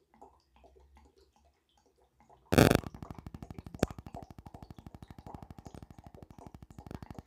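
Gasoline being poured into a mini bike's fuel tank: after a short loud noise about two and a half seconds in, a rapid, even glugging of about ten pulses a second.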